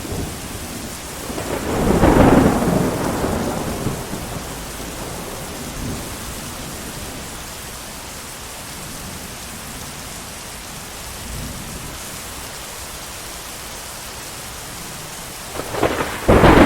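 Steady heavy rain with rolling thunder: a loud rumble swells about two seconds in and fades, fainter rumbles follow, and another loud peal begins near the end.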